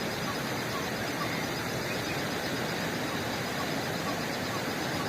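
Steady rushing of fast-flowing floodwater, an even noise at constant loudness.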